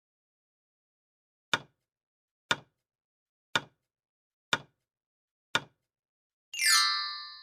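Quiz countdown-timer sound effect: five sharp ticks, one a second, then a bright chime near the end that rings and dies away.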